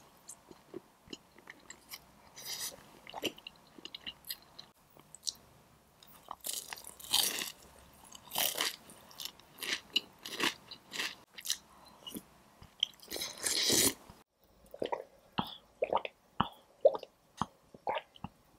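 Close-miked eating sounds: crisp crunching bites into Korean fried chicken wings and wet chewing, with several long loud crunches and many short crackles in between.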